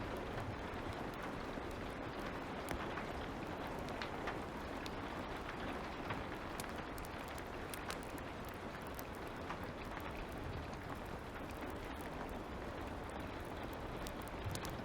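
Light rain as a steady hiss, with scattered sharp crackles and pops from a fire.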